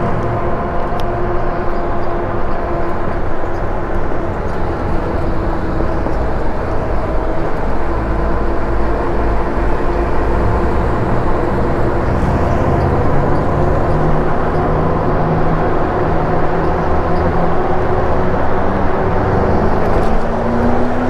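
Riding a Lectric e-bike on the road: a low wind and road rumble on the microphone, with a steady whine of several held tones. A slightly rising tone comes in near the end.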